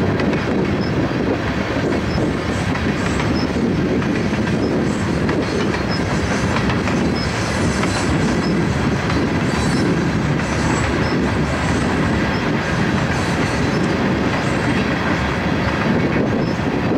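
A freight train of railroad tank cars rolling steadily past: a continuous loud rumble and clatter of steel wheels on the rails.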